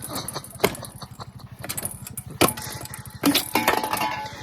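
Coleman mini bike's small single-cylinder engine idling with a steady, rapid putter, with a few sharp knocks over it.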